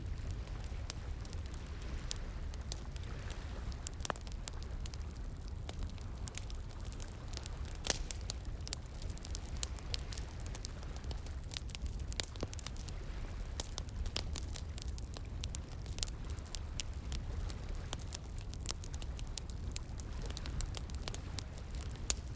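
Wood fire crackling, with frequent irregular sharp pops and snaps over a steady low rush of flowing water.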